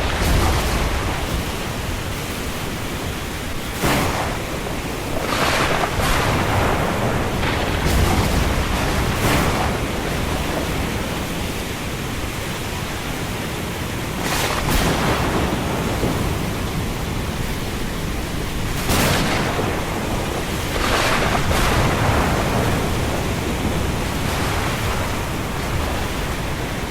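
Storm ambience: a steady rush of wind and rain that swells into louder surges every few seconds, several of them.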